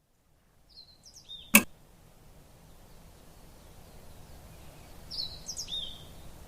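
A bird calling twice, each time a short phrase of high sweeping notes, over a low steady outdoor background. A single sharp click about one and a half seconds in is the loudest sound.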